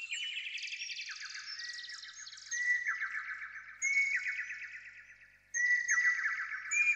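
A songbird singing repeated trilled phrases, about one every second or so. Each opens with a short clear note and runs into a rapid trill that fades away.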